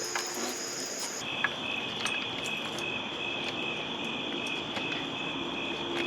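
Crickets chirping in a steady pulsing chorus, with a higher-pitched trill giving way to a lower one about a second in, and a few faint clicks and taps.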